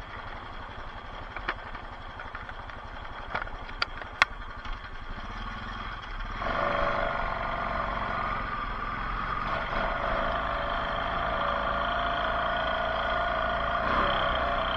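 Off-road bike engine running at idle, with a few sharp clicks and knocks. About six and a half seconds in, a louder steady sound with held tones comes in.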